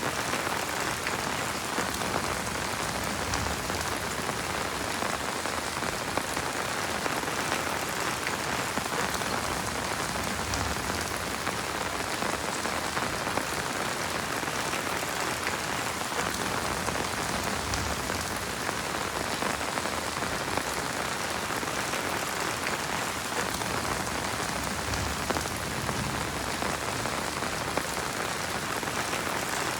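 Heavy rain falling steadily: a dense, even hiss with many small drop ticks through it.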